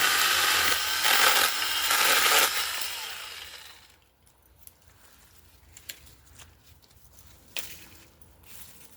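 Mini chainsaw running and cutting through a tree branch for about two and a half seconds, then winding down and fading out. A few faint clicks follow.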